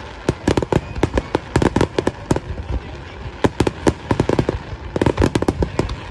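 Aerial fireworks bursting in rapid succession: many sharp bangs and cracks close together, with a short lull about halfway through.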